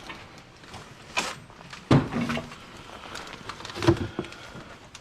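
Objects knocking and clattering as they are handled and set down, with two loud clunks about two and four seconds in.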